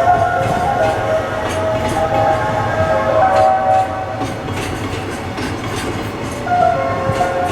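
Freight train moving slowly through the station yard, its wheels giving off high squealing tones that shift in pitch, with clicks as the wagons pass over rail joints.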